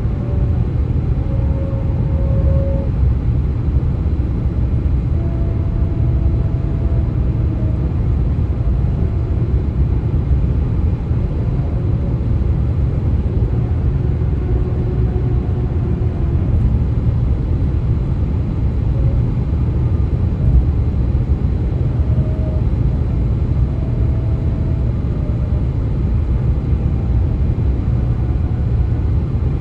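Steady low rumble of road noise on the US-127 highway, with faint, short wavering tones drifting in and out every few seconds over it: the eerie 'ghost noises' the road makes.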